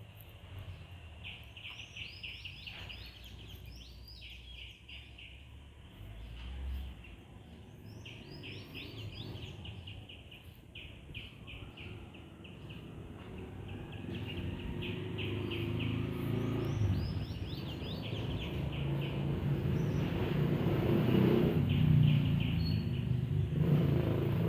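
A bird calling in rapid runs of high chirps, several bouts a few seconds apart. From about halfway a low rumble builds up and grows louder toward the end.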